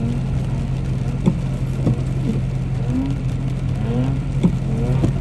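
Car engine running at a steady, even pitch, with short faint chirps and a few sharp clicks scattered over it.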